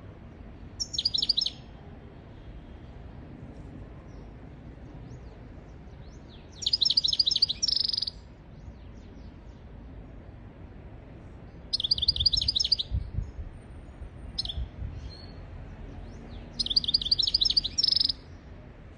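European goldfinch singing: four phrases of rapid, high twittering trills, each about a second and a half long and several seconds apart, with a short call between the third and fourth. A steady low background noise runs under them.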